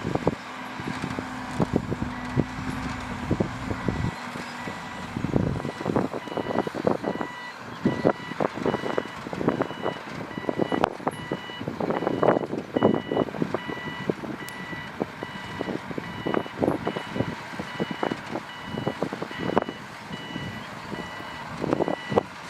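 A heavy earthmoving machine's engine running, with its reversing alarm beeping steadily from about two seconds in. From about four seconds in, dense irregular clanking and knocking rises over the engine.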